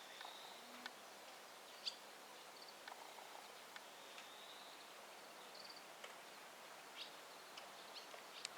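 Faint outdoor background noise with a few short, high chirps from distant birds and scattered light clicks.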